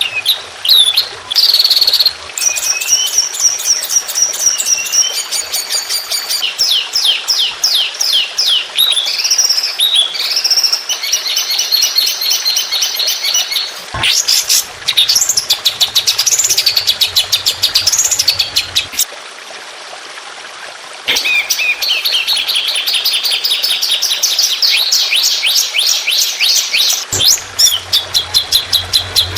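Songbird singing loud, fast, varied song of the kind used as a training recording: rapid repeated chattering notes, trills and rising and falling whistles, high-pitched. A short lull comes a little after two-thirds of the way through.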